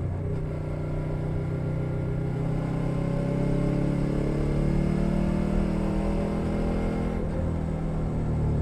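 2021 Suzuki SV 650 V-twin with a Leo Vince Nero aftermarket exhaust, heard from under the seat while accelerating. Its revs climb steadily for several seconds, then drop sharply about seven seconds in as it shifts up a gear.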